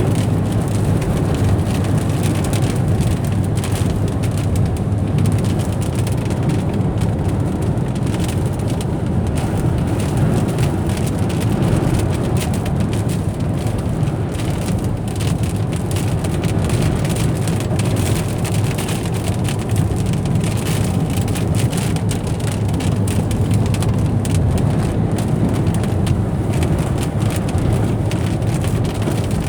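Steady engine and tyre noise of a car driving on the highway, heard from inside the cabin, with rain hitting the car.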